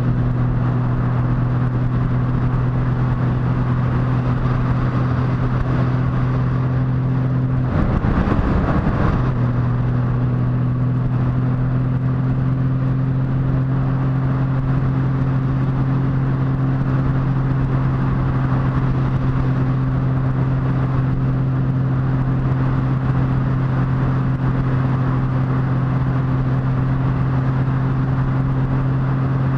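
Motorcycle engine running at a steady cruising note under a rush of wind noise. About eight seconds in the note breaks up for a second and a half, then settles back to a steady note.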